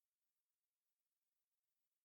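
Silence: the audio track is essentially empty.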